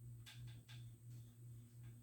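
Near silence: a steady low hum, with a couple of faint clicks in the first second.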